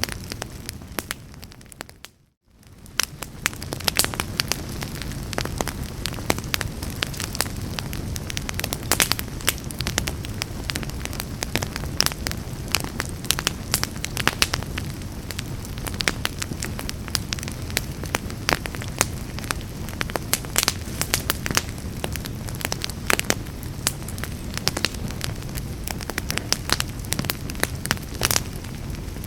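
Wood fire in a fireplace crackling, with frequent sharp pops over a low steady rush. About two seconds in, the sound fades to a brief silence and then fades back up.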